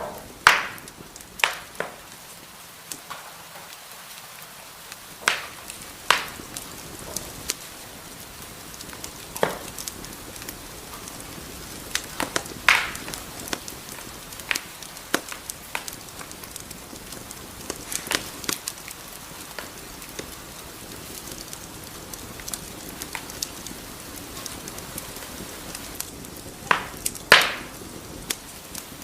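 Wood fire crackling in a fireplace: a soft steady hiss with sharp irregular pops and snaps, a few much louder than the rest.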